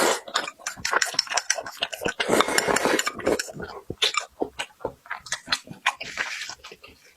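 Close-miked eating at a table: many quick clicks and clinks of utensils against bowls and plates, mixed with the noises of eating.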